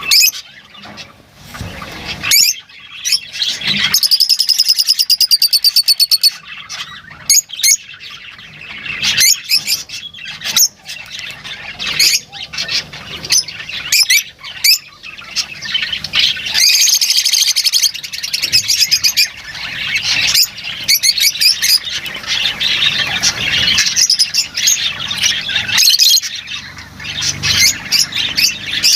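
Lovebirds calling: a steady stream of sharp, high chirps and squawks, broken by rapid chattering runs of a couple of seconds each, one about four seconds in and another past the middle.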